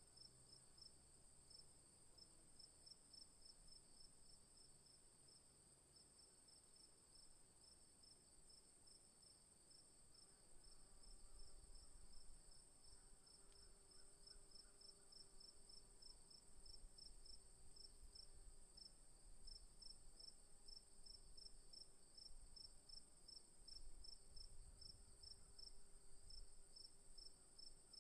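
Insects calling in the bush: one keeps up a continuous very high trill while another gives a slightly lower chirp pulsing at an even rapid rate. Under them is a faint low rumble, and a faint hum that comes in about a third of the way through.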